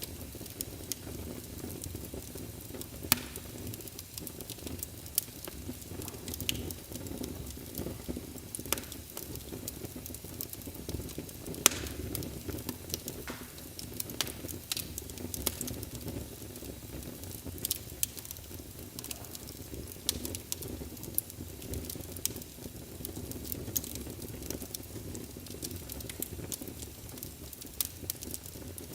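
Wood fire burning in a fireplace: a steady low crackling rumble with sharp pops and snaps scattered at random, two louder snaps about 3 and 12 seconds in.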